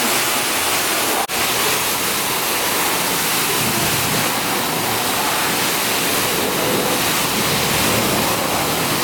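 Car-wash pressure-washer wand spraying water onto a car: a loud, steady hiss of spray, with a brief break about a second in.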